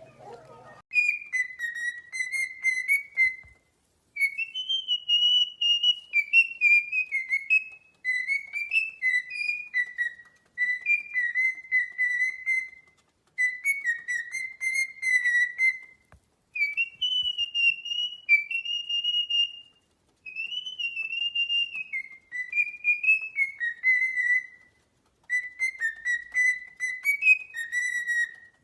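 A pet parrot whistling a tune: a clear, high whistled melody in about eight short phrases, each a few seconds long, with brief pauses between them and the same notes coming back.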